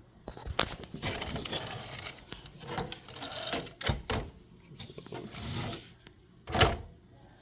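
Handling noise from an RC car and its parts being moved about: irregular rustling with plastic clicks and knocks, and one sharp knock about six and a half seconds in.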